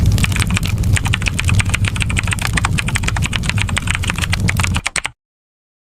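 Campfire crackling: dense, rapid pops and snaps over a steady low rumble, cutting off abruptly about five seconds in.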